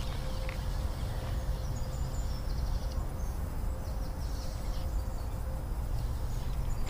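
Outdoor lakeside ambience: a steady low rumble with a few faint, high bird chirps in the middle.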